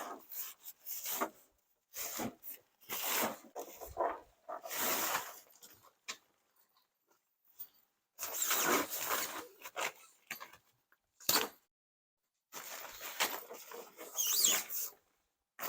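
Nylon tent fabric rustling and rubbing in irregular bursts as a small truck bed tent is unfolded and set up. There is a brief high squeak near the end.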